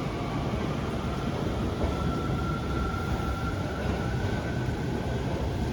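Osaka Metro Midosuji Line subway train running past a station platform: a steady low rumble with a faint high whine that rises slightly in pitch.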